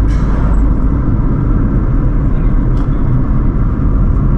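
Steady low rumble of a car driving along a road, engine and tyre noise.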